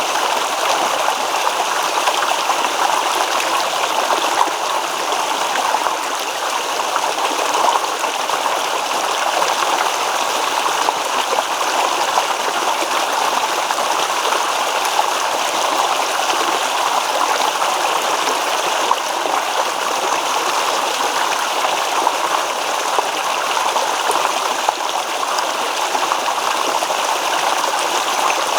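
Shallow stream babbling and splashing over stones, a steady rush of water with no pauses.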